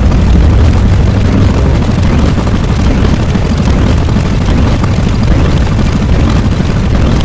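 A loud, steady deep rumble, heaviest in the bass, with no breaks or separate hits.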